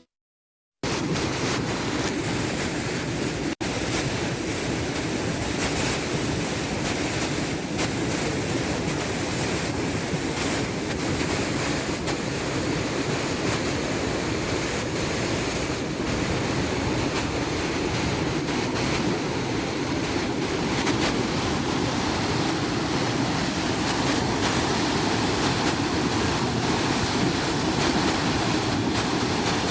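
Waterfall rushing steadily, an even wash of falling water with no pauses.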